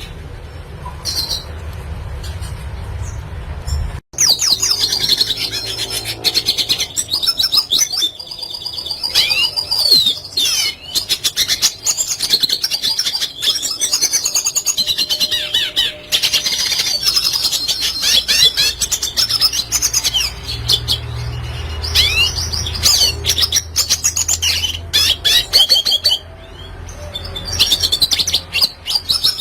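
Red siskin singing a rapid twittering song of fast chirps and trills, with short pauses. For the first four seconds there is only a low hum, which cuts off sharply just before the song starts.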